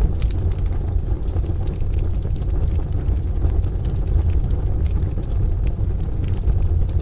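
Wood fire crackling in a stove, with frequent small sharp pops, over a steady low rumble of rain and distant thunder.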